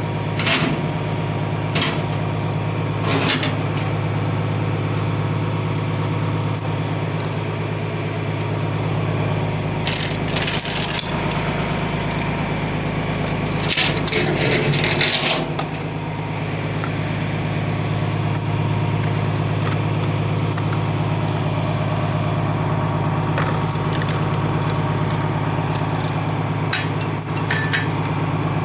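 John Deere tractor engine idling steadily, with bursts of metal clinking and jangling every few seconds, the loudest about a third and halfway through, as a lifted load is let down and unhooked.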